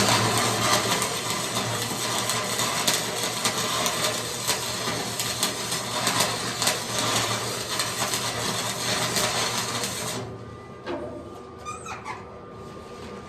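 Electric arc welding a steel patch onto a rusted-through water tank, a steady dense crackle that stops about ten seconds in.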